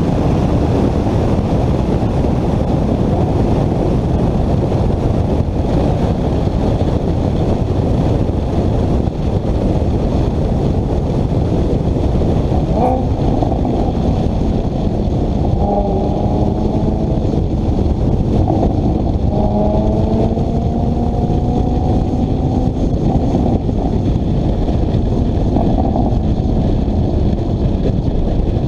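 Loud, steady rumble of a car driving at speed, engine and road noise together. About halfway through, a held pitched note joins it for around twelve seconds.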